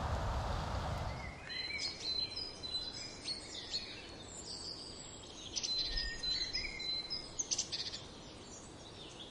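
Wind buffeting the microphone for about the first second, then small birds chirping and whistling: many short chirps and a few held high notes.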